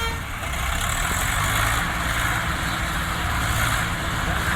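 Tractor's diesel engine running steadily, a low hum with a rushing noise over it.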